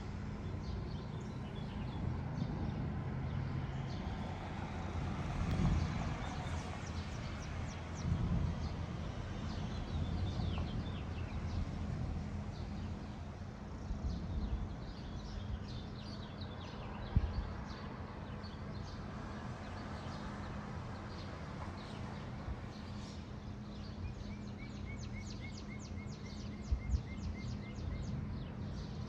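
Birds chirping and singing, with a rapid run of chirps and a short trill near the end, over low rumbles of a nearby thunderstorm that swell and fade. There are a couple of short low thumps.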